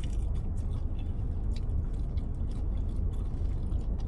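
Close-up mouth sounds of a person biting and chewing a fried chicken wing, a run of short wet clicks and smacks, over a steady low hum.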